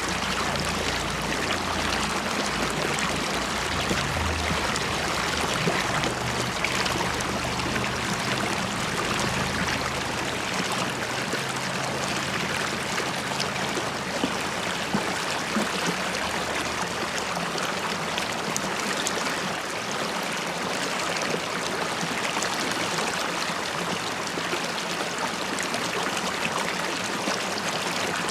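River water flowing and bubbling in a steady, even rush. A low rumble sits under it and fades out a little past halfway.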